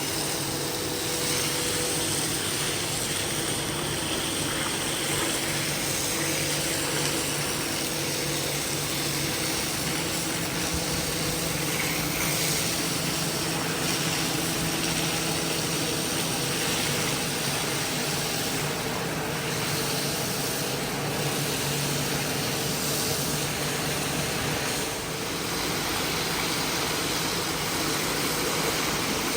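A motorised carpet-cleaning machine running steadily: a constant motor hum under a rushing hiss, with no breaks.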